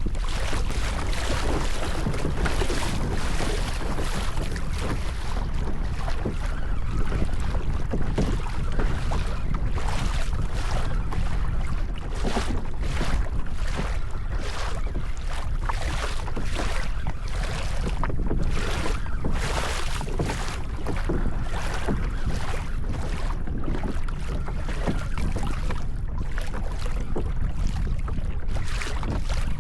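Wind buffeting the microphone over water sloshing against a kayak's hull, a steady low rumble with irregular gusts.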